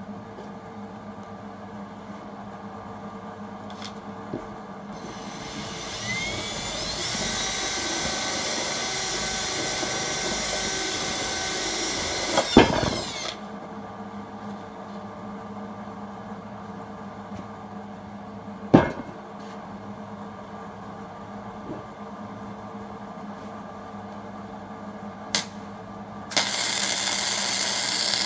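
A handheld power tool motor spins up with a rising whine about five seconds in, runs steadily for about eight seconds, then stops with a couple of sharp knocks of metal. Further single knocks follow. Near the end a gasless flux-core MIG welder's arc strikes abruptly and runs with a loud, steady crackle and hiss.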